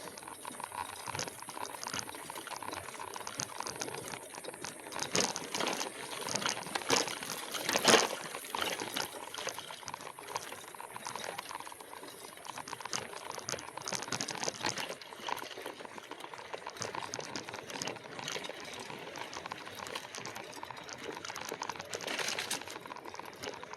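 Heavy e-bike rolling over a rough dirt trail: tyres crackling over twigs, leaves and roots, with rattles and knocks from the bike. A louder knock comes about 8 seconds in.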